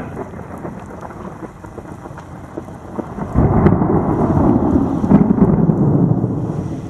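Thunder: a sudden loud low rumble breaks in about halfway through, rolls on for about three seconds and fades, over a steady patter of rain.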